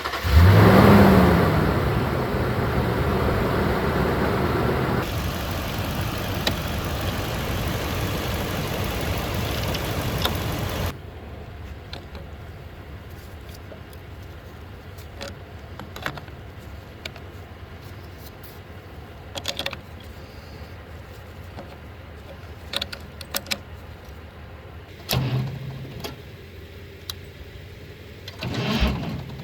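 Tractor engine starting, its pitch rising quickly as it catches and revs, then running loudly. About eleven seconds in the sound drops suddenly to a low background with a few scattered clinks and knocks.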